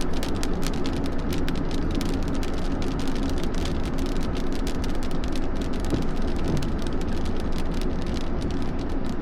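Heavy rain beating on a hard surface, a dense patter of sharp drop impacts over a steady low rumble of storm wind.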